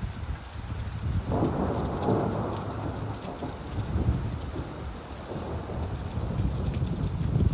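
Steady rain with a roll of thunder: a low rumble that swells about a second in and slowly fades.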